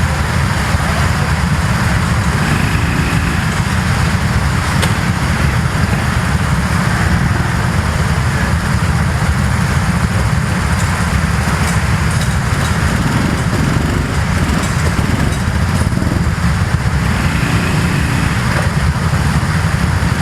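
Go-kart engines running steadily and continuously, with no pause.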